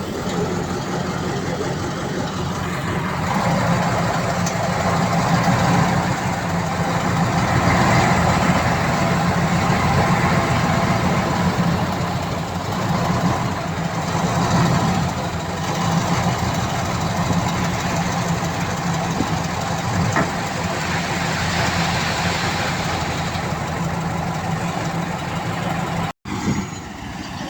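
Heavy diesel engine of earthmoving machinery running steadily with a low drone, growing louder a few seconds in. The sound drops out for an instant near the end.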